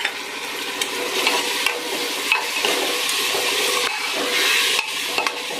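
Wet ground spice paste sizzling in hot oil in a pressure cooker as it is fried, with a plastic spatula stirring and scraping against the pot now and then.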